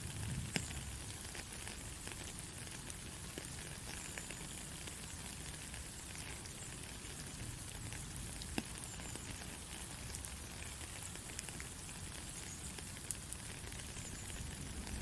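Heavy rain falling steadily, an even hiss with scattered sharp ticks of individual drops striking nearby surfaces.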